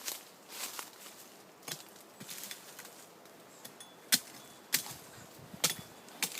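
Irregular sharp knocks or chopping strikes, a few softer ones early on and louder ones spaced about half a second to a second apart in the second half.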